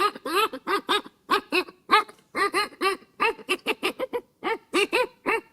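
A dog barking in a quick run of short, high yaps, about four a second.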